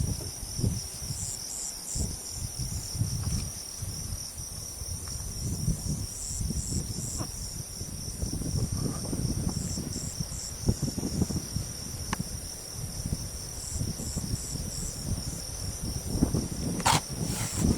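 Insects trilling steadily at a high pitch, with a second insect's short chirps coming in groups of three every few seconds, over a low uneven rumble of wind on the microphone. A sharp click near the end.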